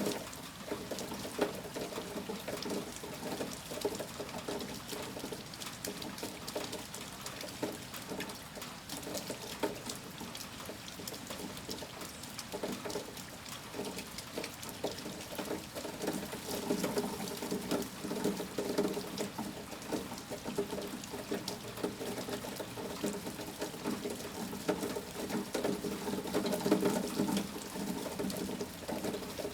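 Steady heavy rain falling and pattering, with water pouring and trickling; it swells a little at times.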